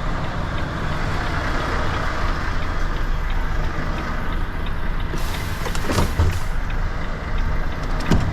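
Semi-truck's diesel engine idling steadily, with a short high hiss about five seconds in. There is a knock about six seconds in and another near the end.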